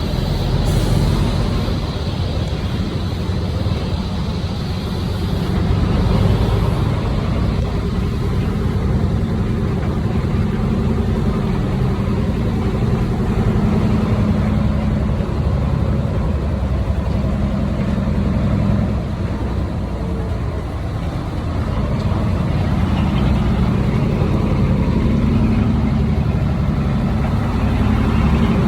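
Heavy diesel earthmoving machinery, a bulldozer and dump trucks, running steadily. The engine note swells and eases slowly with the load.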